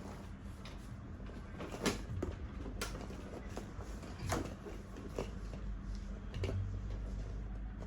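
Scattered clicks and knocks, about five in all, of high chair parts being handled and fitted together, over a low steady hum.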